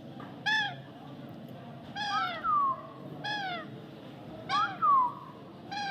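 White parrot calling: about five short calls, each rising and then falling in pitch, two of them doubled into two-part calls.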